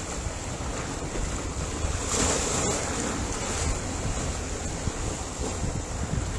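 Ocean waves breaking on a shore, a steady wash of surf with one wave swelling louder about two seconds in, with a deep rumble underneath.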